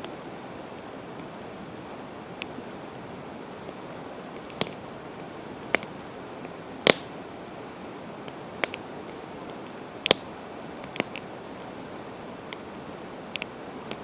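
Campfire of split evergreen wood burning, with sharp pops and crackles at irregular moments, the loudest about seven and ten seconds in, over a steady rushing hiss. For the first half a faint high chirp repeats evenly about twice a second.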